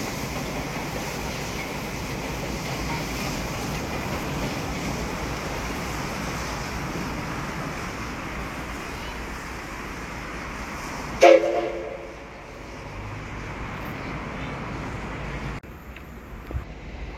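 Train running with a steady rumble, then a single short, loud horn blast about eleven seconds in; the running noise is quieter afterwards.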